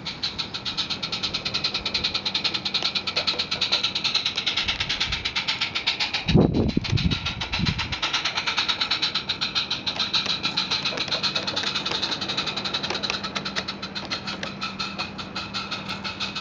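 Small live steam garden railway locomotive running with a passenger train, its exhaust beating in a rapid, even rhythm over a steady low hum. A brief low bump comes about six seconds in.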